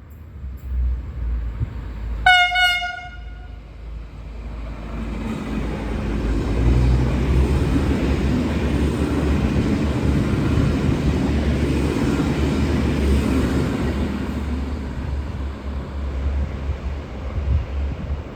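V/Line VLocity diesel multiple unit (VS93 and VS95 coupled): one short toot of the horn about two seconds in, then the train passing, its engine and wheel noise building for several seconds, loudest in the middle and easing off near the end.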